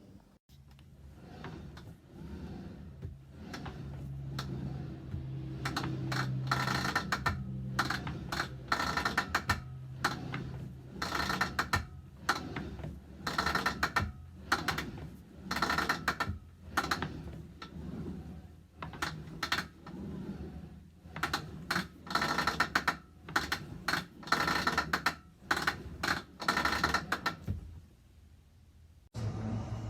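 Rowing machine's handle strap and pulley mechanism clicking and rattling in repeated bursts of rapid clicks as it is worked by hand; its recoil spring is broken, so the handle pulls out with no resistance.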